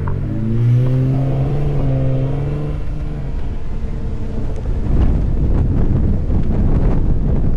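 Ford F-150 Raptor's engine revving under load, its pitch climbing over the first second or so and then holding. About halfway through, the engine note gives way to a loud rough rumble of wind buffeting the microphone, with crackling.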